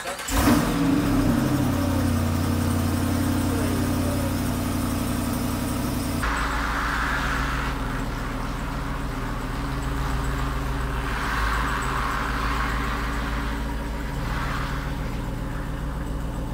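Jeep Wrangler Rubicon 392's 6.4-litre Hemi V8 flaring briefly at the start, then settling to a steady idle. The idle sounds deeper from about six seconds in.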